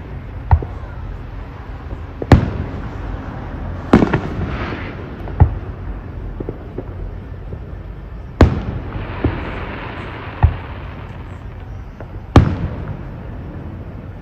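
Fireworks bursting overhead: about seven sharp bangs a second or two apart, two of them followed by a brief crackling shower.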